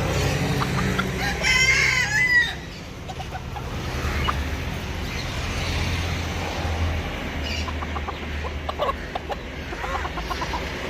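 Rooster crowing once, a loud call lasting about a second starting just over a second in, followed by scattered short chicken clucks over a steady low rumble.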